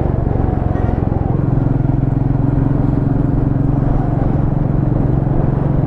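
Motorcycle engine running steadily at an even pace while being ridden, with road and wind noise.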